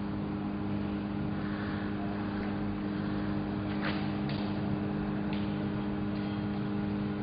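Steady electrical hum of a running arc-welding machine, with a few faint clicks.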